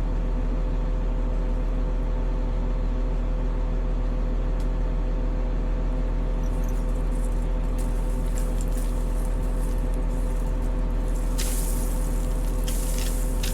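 Caterpillar 140M motor grader's diesel engine running steadily at a constant level. From about halfway through, irregular crackling clicks and hiss come in on top, loudest near the end.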